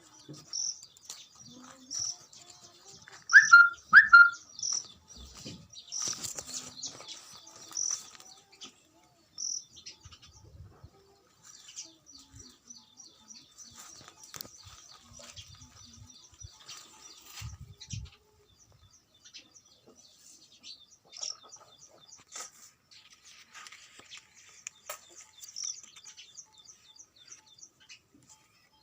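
Birds chirping: a short high chirp repeated every second or two, with two loud short calls about three and four seconds in, then scattered chirps for the rest of the stretch.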